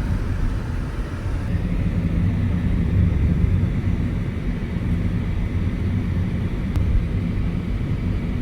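Car engine and road noise from a moving car: a steady low rumble that swells a little a few seconds in.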